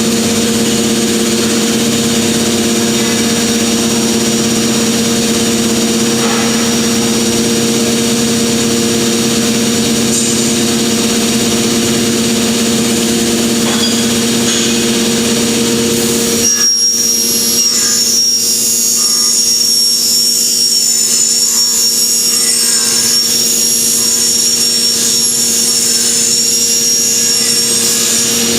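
Automatic cutting machine running with a steady hum. About halfway through, the hum drops away and a high-pitched whine takes over.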